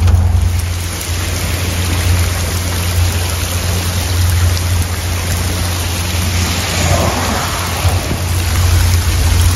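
Heavy rain and rushing floodwater: a steady, even hiss over a constant low hum.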